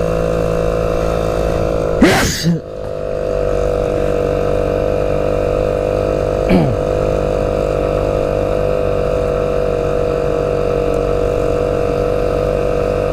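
Motorcycle engine running at a steady speed while riding, an even drone with wind. Two brief louder swells with a falling pitch break in, a strong one about two seconds in and a shorter one about halfway through.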